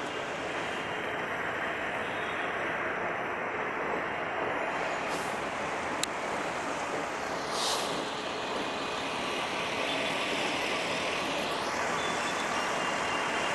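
A meter-gauge passenger train rolling past, a steady rushing rumble of wheels on rail. A sharp click comes about six seconds in, with short bursts of hissing air around it.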